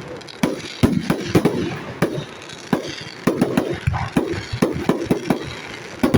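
Aerial fireworks going off in a rapid, irregular string of sharp bangs and crackles, several a second: shells and cake batteries bursting overhead.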